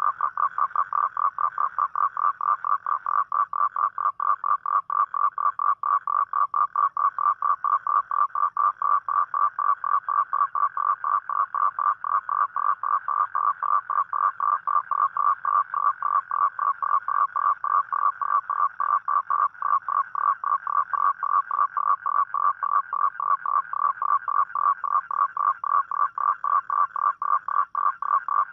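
A toad calling at night: a steady, unbroken series of short, evenly spaced pulses, about four a second. It is the call a male toad makes to attract a mate.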